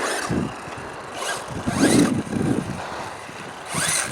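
Radio-controlled car's electric motor whining up and down in pitch in several quick bursts as it accelerates, with its tyres scrabbling on dirt; the loudest burst comes about two seconds in.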